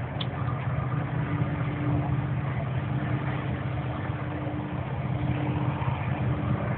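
A motor running steadily with a low hum, a faint higher whine coming and going over it.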